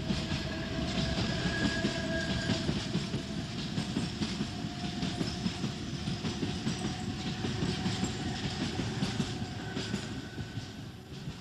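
Train running along the rails, a steady rumble with rapid clatter of the wheels over the track and a faint whine held above it, easing off near the end.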